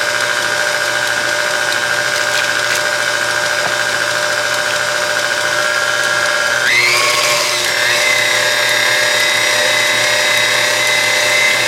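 Electric mixer running steadily, beating cream cheese into a pudding mix, its motor whine jumping to a higher pitch about seven seconds in as the speed is turned up.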